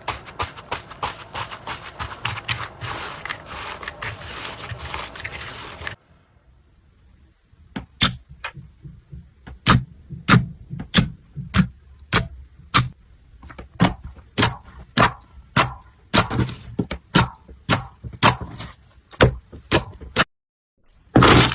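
Slime being squeezed and pressed by hand: dense crackling for about six seconds, then, after a short pause, a run of separate sharp pops and clicks, about one or two a second, each with a soft low thud.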